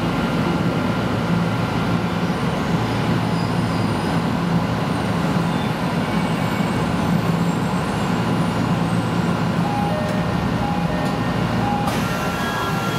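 Electric commuter train running, heard from inside the passenger car: a steady rumble with a low hum. A sharper, hissier noise comes in about twelve seconds in.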